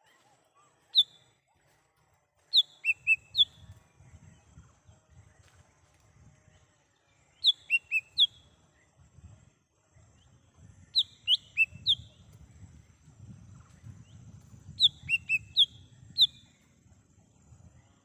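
Cucak hijau mini (a small green leafbird) calling in the wild: five short phrases of one to four sharp, down-slurred whistled notes, with a low rumble underneath.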